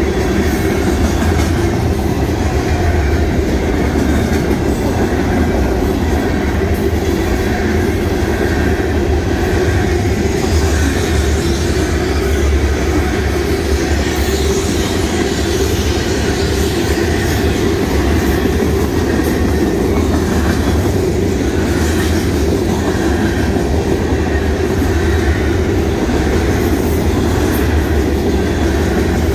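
Freight train's covered hopper and tank cars rolling past at a grade crossing: a loud, steady noise of steel wheels running on the rails.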